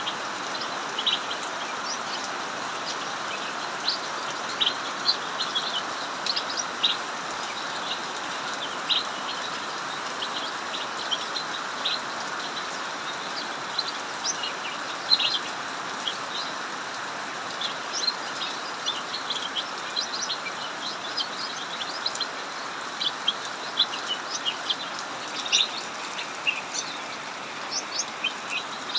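Cucak mini songbirds singing continuously, a rapid, irregular stream of short chirps, over the steady hiss of heavy rain.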